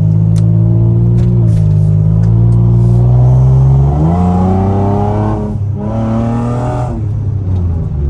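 Infiniti G35's 3.5-litre V6 with a loud exhaust, running and pulling away. Its pitch climbs in steps, dips briefly about two-thirds of the way in, then eases off near the end.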